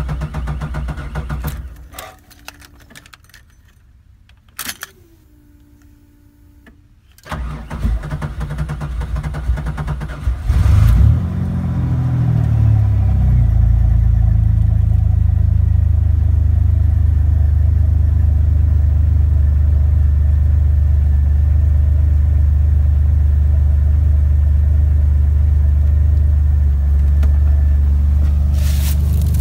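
Cold start of a 1996 Camaro's 3.8-litre V6 after a week sitting at 29°F. The starter cranks for about three seconds, the engine catches, its revs rise and fall back, and it settles into a steady idle for the rest of the time, with a few knocks near the end.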